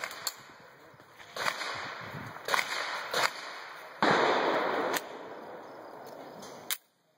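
Several handgun shots cracking at irregular intervals on a firing range. A burst of rushing noise lasts about a second midway.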